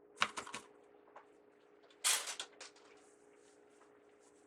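Ribbon being handled while a bow is shaped: a few short crinkly rustles just after the start and a louder rustle about two seconds in, then small ticks. A faint steady hum runs underneath.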